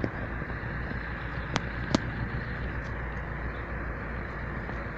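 Diesel freight train running near a level crossing: a steady low rumble, with two sharp clicks about a second and a half and two seconds in.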